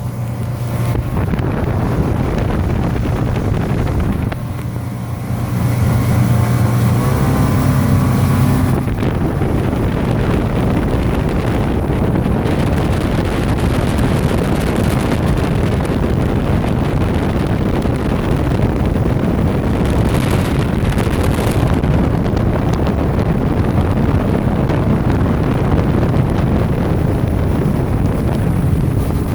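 Motorboat engine running, with wind buffeting the microphone and the rush of water against the hull. The engine note picks up about five seconds in, then settles into a steady loud rush.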